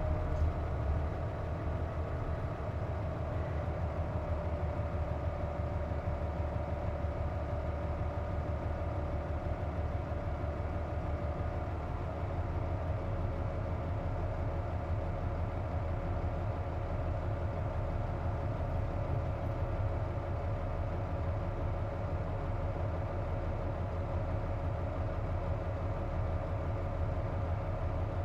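Hino Rainbow JP city bus idling, heard from inside the cabin. Over the low engine hum runs a steady whine that slides down in pitch and settles in the first second. It is the odd noise the bus makes with its air conditioning running.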